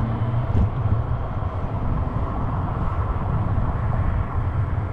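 Wind buffeting the microphone: a steady, flickering low rumble with a hiss above it.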